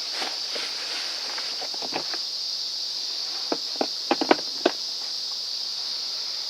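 Sharp clicks and knocks of brush cutter parts being handled and fitted together during reassembly, about eight in all, the loudest a quick cluster a little after four seconds in. A steady high-pitched drone runs underneath throughout.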